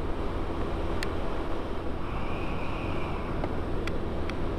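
Yamaha Vino 125 scooter's single-cylinder four-stroke engine running steadily at a cruising speed of about 35 mph, with wind noise on the microphone.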